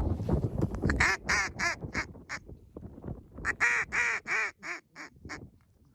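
Loud duck quacks in two runs, about five quacks and then about seven, after a low wind rumble in the first second.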